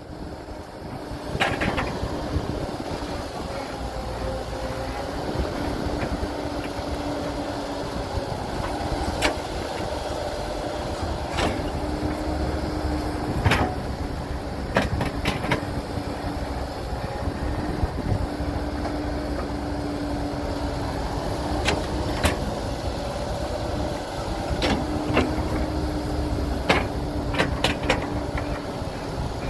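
Diesel engine of heavy earthmoving machinery running steadily, with sharp knocks and clanks every few seconds.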